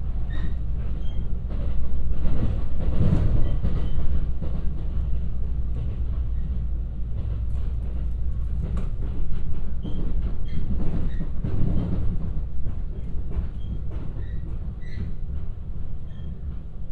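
Cabin noise of a JR West 223 series electric train under way: a steady rumble of wheels on rails with frequent sharp clicks and a few brief high squeaks. It grows quieter near the end as the train slows into a station.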